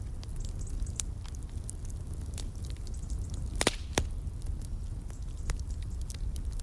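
Fireplace fire crackling: a steady low rumble under scattered sharp snaps, with two louder pops close together about midway.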